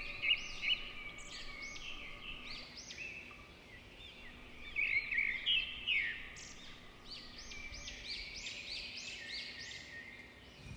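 Small birds chirping: many short arched chirps, overlapping and repeating, over a faint steady hum.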